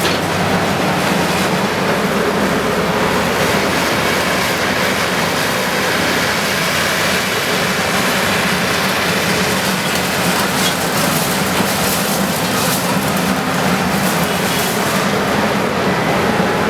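Heavy machinery, likely a bulldozer, running steadily with a constant loud mechanical noise.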